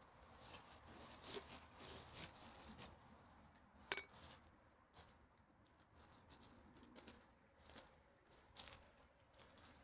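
Faint, irregular rustling and crackling from litter being gathered on the dry forest floor, with a sharper click about four seconds in.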